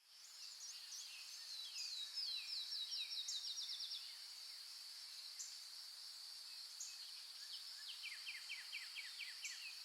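Insect drone, steady and high-pitched, with a bird singing a fast run of short falling notes about two seconds in, and another run of lower falling notes near the end.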